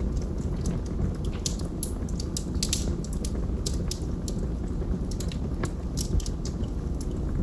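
Wood fire burning in a fireplace, crackling and popping irregularly over a steady low rush of the flames.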